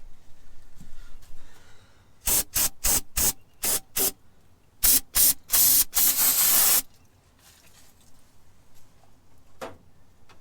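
Aerosol can of brake cleaner spraying a dirty engine nut clean: a quick run of about eight short hissing squirts, then one longer spray of over a second.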